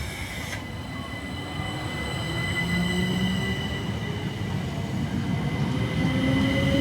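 Southeastern electric multiple-unit train running, its electric motors whining, with a pitch that rises steadily in the last couple of seconds as the train speeds up and the sound grows louder.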